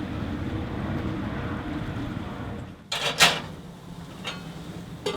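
Steady low rumble of wind and boat noise, which cuts off almost three seconds in; a sharp knock follows as the loudest sound, then a few fainter knocks.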